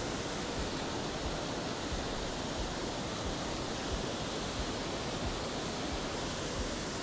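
Steady rushing of a mountain waterfall, falling water pouring without a break.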